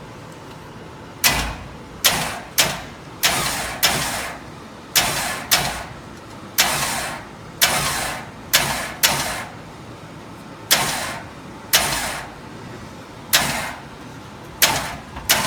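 A string of about fourteen short, sharp hissing bursts at irregular intervals, each starting suddenly and dying away within about half a second.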